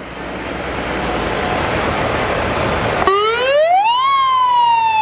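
A loud, even rushing noise cuts off about three seconds in. An emergency vehicle's wailing siren replaces it, winding up in pitch for about a second and then beginning a slow fall.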